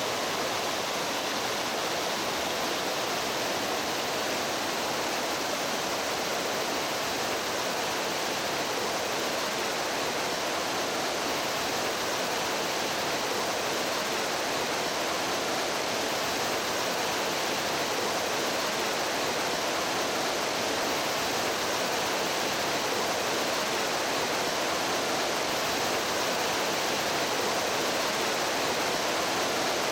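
Stream water flowing with a steady, even rushing sound.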